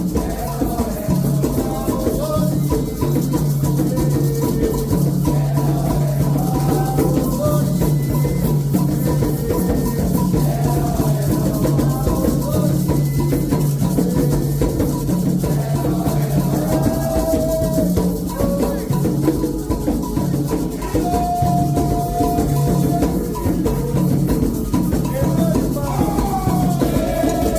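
Candomblé ceremonial music: atabaque hand drums playing a steady rhythm with a shaken rattle, and voices singing over them, a toque for the orixá Oxalá.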